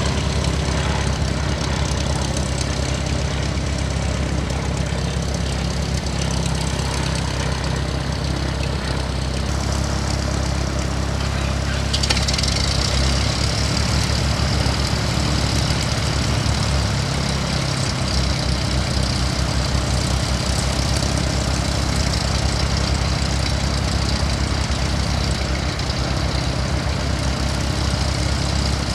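Engines running steadily with a low drone. About twelve seconds in, a high whine joins and holds.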